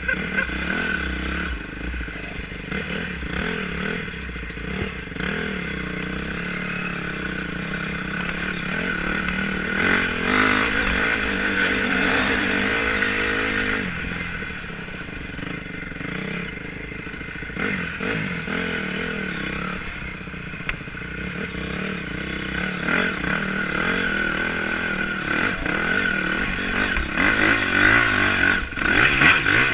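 Honda 250 enduro motorcycle being ridden off-road, its engine revving up and down through the gears, loudest about ten seconds in and again near the end.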